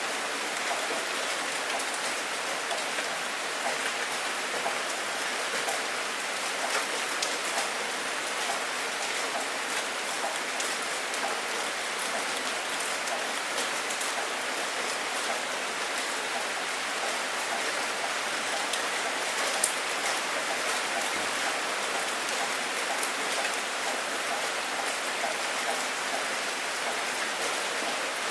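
Steady heavy rain falling: an even hiss of rain with scattered sharper drop ticks, and one louder tick about two thirds of the way through. No thunder is heard.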